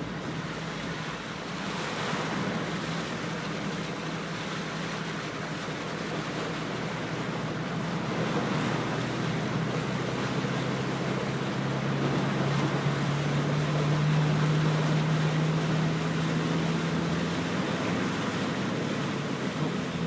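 A vehicle engine running through a steady rush of floodwater, the engine growing louder past the middle and easing near the end.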